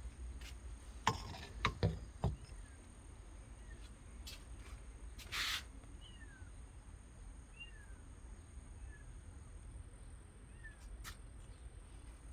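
A kitten mewing faintly, short high cries that fall in pitch, repeated every second or so. A few sharp knocks sound about a second in, and there is a brief rustling burst midway.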